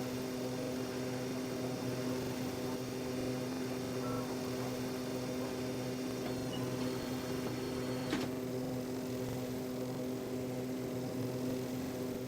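Aeroplane engines giving a steady, unchanging drone of several layered pitches, with one short click about eight seconds in.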